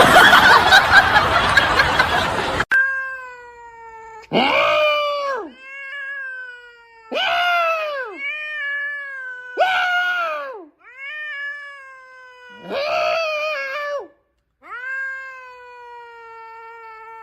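A cat yowling (caterwauling) in about eight long, drawn-out calls, each starting with a quick swoop in pitch and then holding a slowly falling wail. Before the yowls, a loud noisy stretch of a couple of seconds cuts off abruptly.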